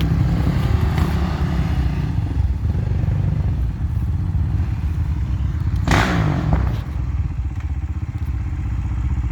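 Enduro motorcycle engine running and revving at low speed on a difficult muddy section, with a sharp clatter about six seconds in, after which the engine runs a little quieter.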